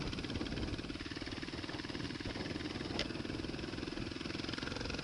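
Kawasaki KLR motorcycle's single-cylinder engine running steadily under way as it climbs, with one short click about three seconds in.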